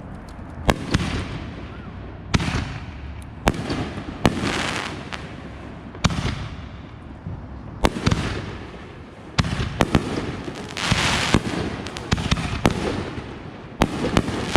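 Backyard consumer fireworks going off: about a dozen sharp bangs at irregular spacing, with crackling and hissing between them, busiest around two-thirds of the way through.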